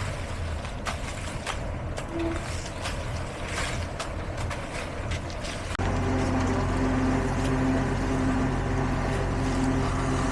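Heavy construction machinery running: a diesel engine with scattered knocks and clicks, then, about six seconds in, a louder, steady engine sound.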